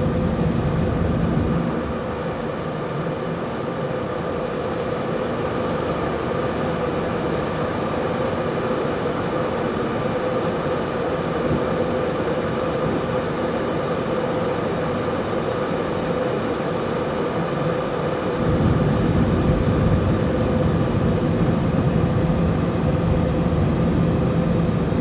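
Airliner cabin noise in flight: a steady rush of air and engine drone with a constant hum. The deep rumble drops away about two seconds in and comes back louder a little after eighteen seconds in.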